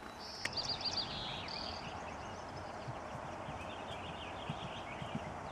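Songbirds singing and chirping, with a short trilled song in the first two seconds and scattered chirps after, over steady outdoor background noise. A couple of soft low thuds near the end.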